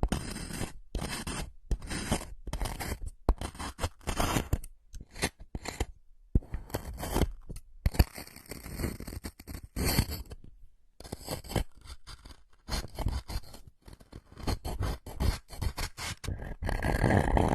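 Scraping and scratching strokes in quick succession, about two a second, each stopping sharply, with a longer unbroken scrape partway through and a louder run near the end.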